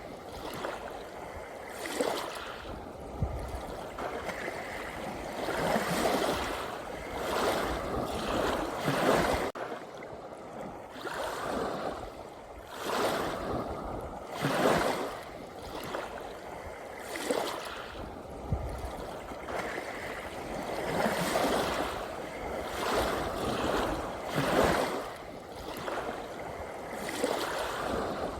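Small ocean waves lapping and splashing, a surge of surf every few seconds over a steady wash of water.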